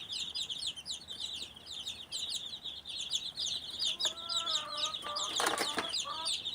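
Chickens: a steady run of rapid, high-pitched peeping. A longer, lower call comes about four seconds in, and a short loud burst follows about a second later.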